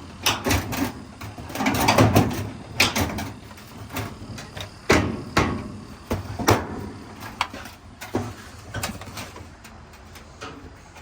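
Irregular clicks, knocks and light clatter of a dryer's metal panels and parts being handled and clipped together during reassembly, busiest in the first half and thinning out later.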